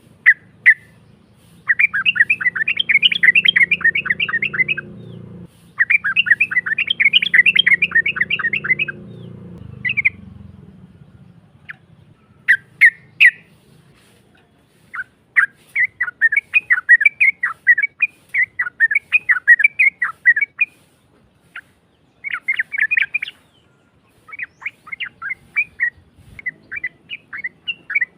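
Yellow-vented bulbul (trucuk) singing in rapid chattering runs of quick, harsh repeated notes. There are two long phrases in the first ten seconds, then shorter broken runs after a pause. A low hum lies under the first ten seconds.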